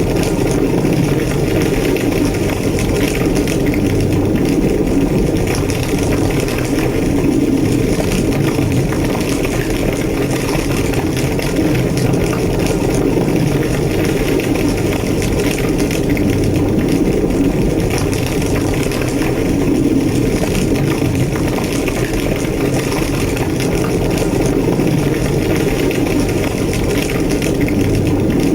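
A large blaze, a burning building, with a steady low roar and constant crackling.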